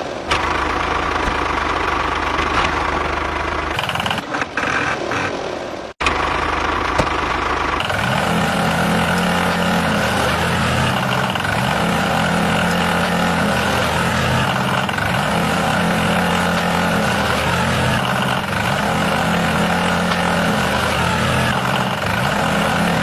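Engine running steadily, with a brief cut about six seconds in and a change to a deeper, even tone about two seconds later.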